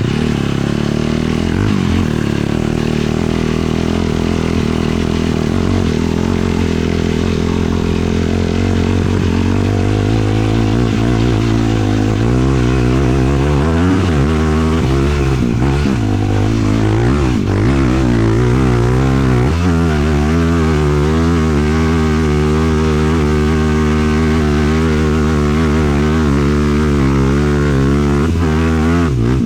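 450cc single-cylinder four-stroke sport quad engine running under way. Its pitch is fairly steady at first, then rises and falls repeatedly with the throttle from about twelve seconds in.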